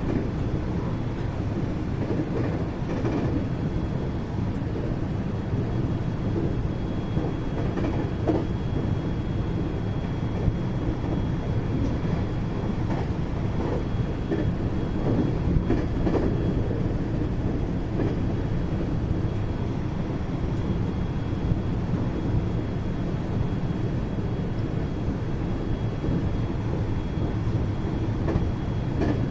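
Interior running noise of a 521-series electric multiple unit's motor car (KuMoHa 521-30) travelling between stations: a steady, dense rumble of wheels on rail and underfloor running gear, with a few faint knocks. A faint steady high tone joins about a third of the way in.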